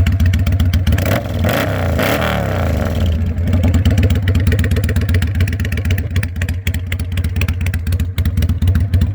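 2003 Kawasaki Vulcan 800's V-twin engine idling with a steady low pulse, with a brief rev about one to three seconds in.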